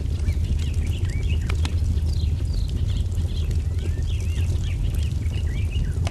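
A wood fire crackling, with scattered sharp pops over a steady low rumble, mixed with small birds chirping in quick, short notes that slide up and down.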